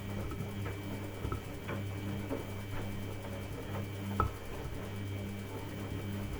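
Samsung washing machine running a quick wash: a steady low motor hum that briefly drops out and comes back every second or two as the drum turns, with scattered light knocks and clicks from the load tumbling.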